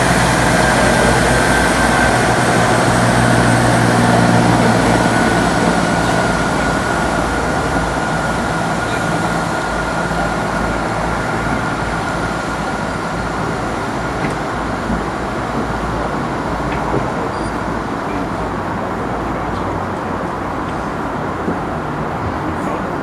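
Passenger train passing and moving away, its rumble slowly fading, with a thin whine that falls slightly in pitch as it goes.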